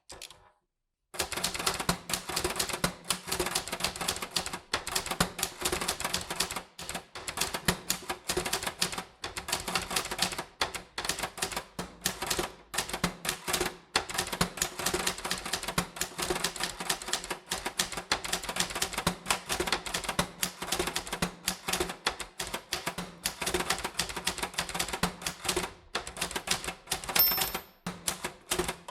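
Typewriter being typed on: a fast, steady stream of key clacks, starting about a second in after a short pause.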